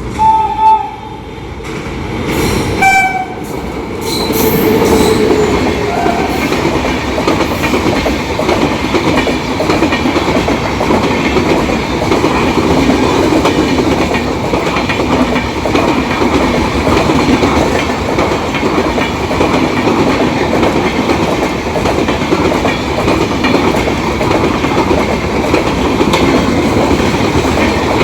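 Express train passing at speed behind a WAP-7 electric locomotive. Its horn sounds in two short blasts, near the start and about three seconds in. Then a loud, steady rush of LHB coaches runs by, with wheels clattering over the rail joints.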